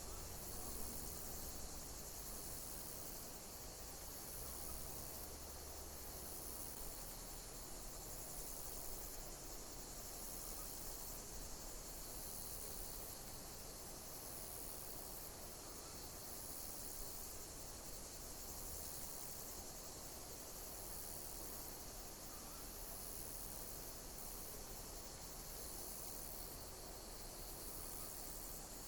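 Insects chirping, cricket-like: a steady high-pitched chorus, with a sharper, higher chirp repeating about once a second.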